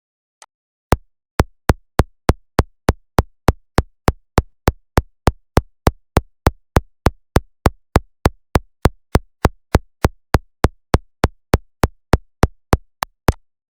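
Clock-tick sound from a 555 timer circuit pulsing a speaker: sharp, evenly spaced clicks, nearly three a second, starting about a second in and stopping shortly before the end.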